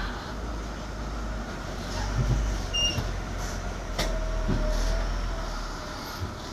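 Loaded Hino truck's diesel engine running low and steady on a steep descent, with a single sharp click about four seconds in.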